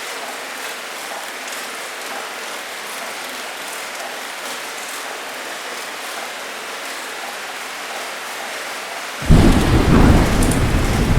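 Steady heavy rain pouring, then about nine seconds in a deep, loud thunder rumble breaks in suddenly and keeps rolling.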